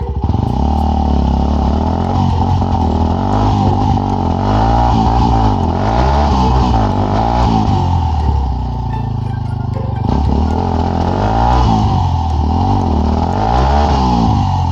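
Dirt bike engine revved up and down over and over, the pitch climbing and dropping in repeated swells every second or two.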